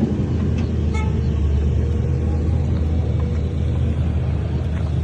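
Heavy diesel earthmoving machinery, a bulldozer or dump truck, running steadily with a deep, even rumble.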